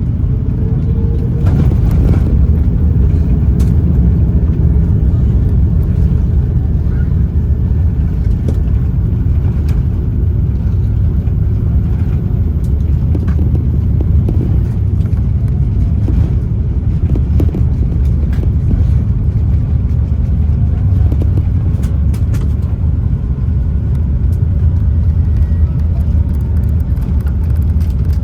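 Airliner cabin noise while taxiing after landing: a steady low rumble of the engines and rolling wheels, with scattered small knocks and rattles.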